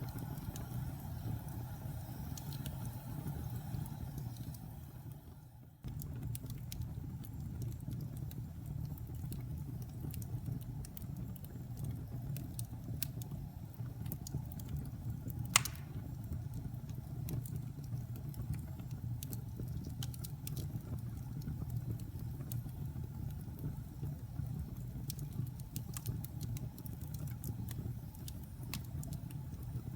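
Fire burning in a fireplace: a steady low rumble of flames with scattered crackles and pops, one sharp pop about fifteen seconds in. The sound fades down around five seconds in and cuts back in abruptly just before six seconds.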